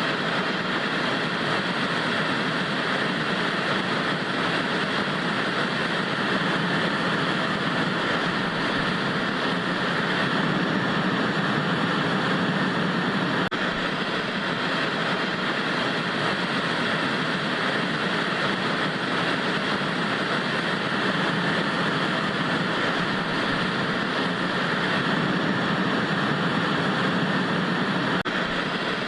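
Steady hiss of vintage TV static, an even, unbroken noise.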